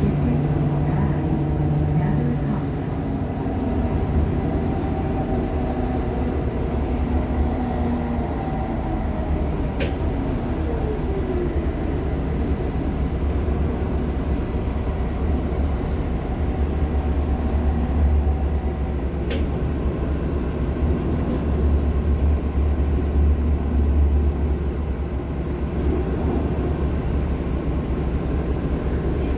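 Nova Bus LFS Artic hybrid articulated bus underway, heard from inside: the steady low drone of its Cummins ISL9 diesel and Allison H50 EP hybrid drive over road rumble.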